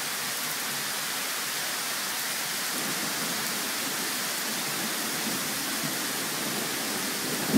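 Steady rain of a thunderstorm, an even hiss. A loud thunderclap breaks in at the very end.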